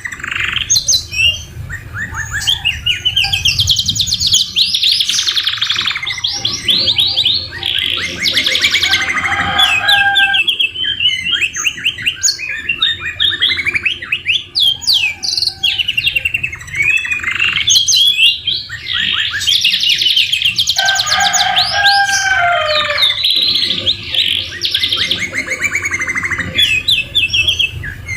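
Domestic canary song: continuous rapid trills and rolls, with lower whistled phrases twice, in a song filled with phrases copied from the white-rumped shama.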